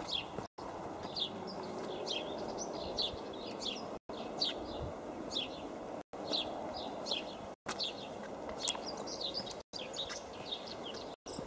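Small birds chirping, with many short, quick calls overlapping over a steady low background hiss. The sound cuts out briefly several times.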